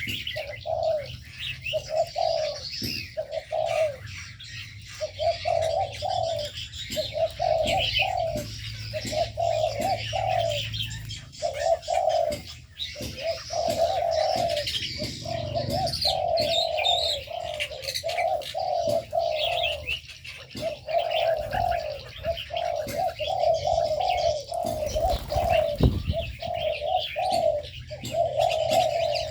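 Several aviary doves cooing in overlapping, repeated phrases, with smaller birds chirping and twittering above them.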